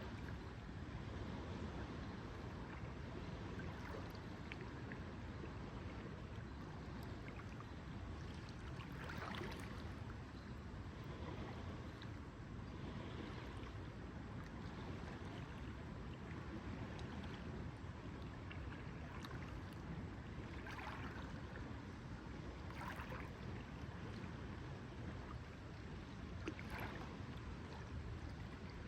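Lake water lapping gently over a steady low rumble of wind, with a few brief small splashes now and then.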